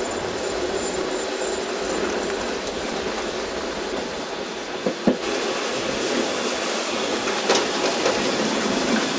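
Harz narrow-gauge train running: a steady rolling rumble and rattle of the carriages on the rails, with a few sharp knocks about five seconds in and again a couple of seconds later.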